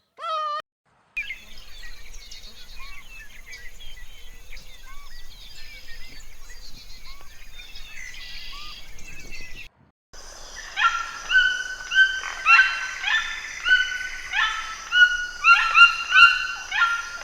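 Animal sounds in three parts. After the end of a short call, birds chirp faintly for several seconds. After a sudden cut about ten seconds in, a run of loud, short, repeated high calls follows, about two a second and overlapping.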